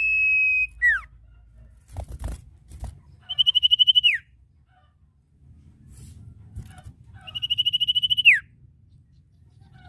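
Sirtu (cipoh, common iora) calling: a long, level, high whistle that ends in a quick downward slur, then two calls of a fast trill held at one pitch that drops sharply at the end. A few dull knocks come between the first and second calls.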